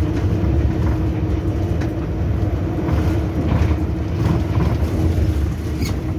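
Train locomotive running along the track, heard from inside the cab: a steady low rumble with a held hum, and a few faint clicks.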